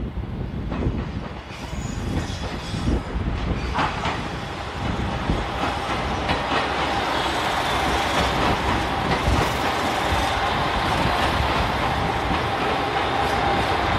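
JR Shikoku 2000 series diesel railcar train running into a station, its wheels clacking over the rail joints. The sound grows louder as it nears, and a steady squeal runs under the rumble from about halfway through.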